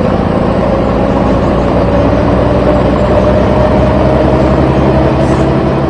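Truck engine running steadily, its pitch creeping slowly upward.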